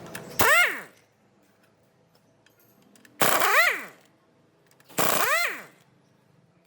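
Impact wrench run in three short bursts, each with a rattling hammer and a whine that rises and then falls away as the trigger is released.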